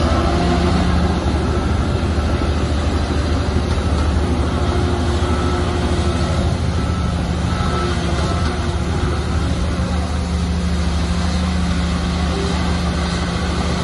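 Heavy diesel engine of earthmoving equipment running steadily under load, holding an even pitch throughout.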